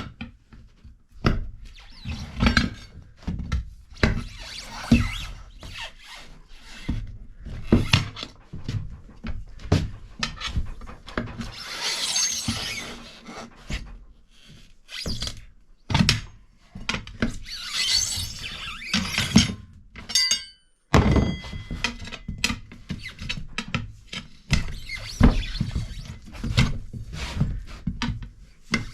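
Hand tools knocking and scraping on a tractor wheel while a worn front tire is worked off its steel rim: a steady run of thunks and clanks with rasping scrapes between them.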